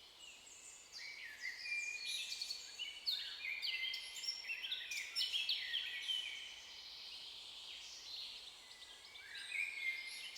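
Birdsong: several small birds chirping and trilling at once, many short, high calls overlapping. It starts about a second in and thins out for a while before picking up again near the end.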